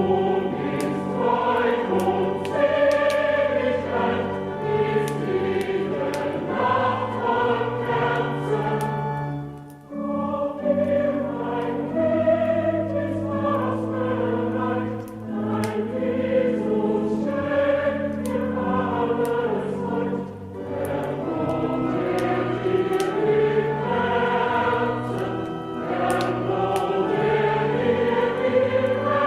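A choir singing a Christmas song with instrumental accompaniment, with a brief pause about a third of the way through.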